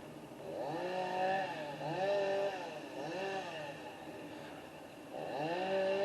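Chainsaw revved up and let back down three times, then opened up again about five seconds in and held at high revs.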